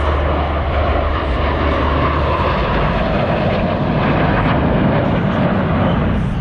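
Jet engines of Blue Angels F/A-18 Super Hornets making a loud, steady roar as the formation passes.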